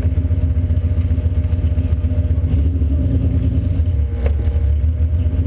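Car engine running steadily at low revs close by, a deep pulsing throb with a rattly edge. A single sharp click about four seconds in.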